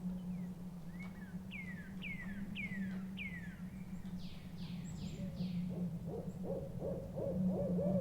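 Forest birdsong: four clear whistles sliding downward, then four quick higher downward notes, then from about the middle on an owl's rapid quavering hoot, over a steady low drone.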